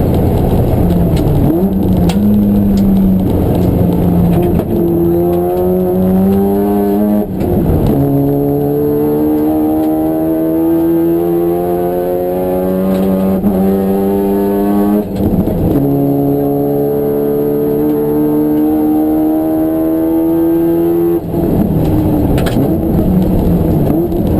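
Racing car engine accelerating hard through the gears. Its pitch climbs steadily in each gear and drops suddenly at each upshift, three times. Near the end the pitch falls as the car slows.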